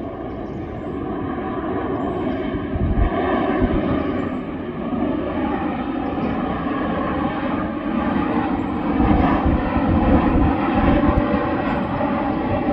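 Airplane engines running loud and steady, with a whining tone over the roar, growing louder over the first few seconds as the aircraft nears.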